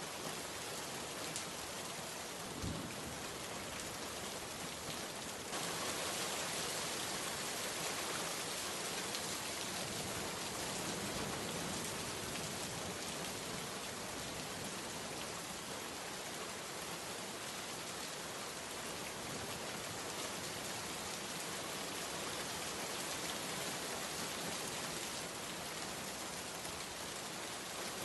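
Heavy rain falling steadily in an even, hissing wash, growing a little louder about five seconds in.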